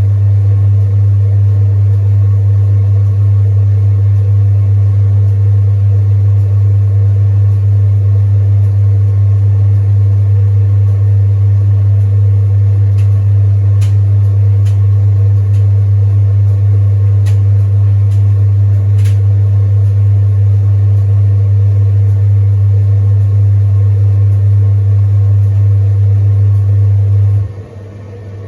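Zanussi AutoReverse TD200 vented tumble dryer running with bedding: a loud, steady motor hum with a few faint ticks midway. The hum cuts off suddenly near the end as the drum motor stops to reverse direction, leaving the quieter separate blower fan running.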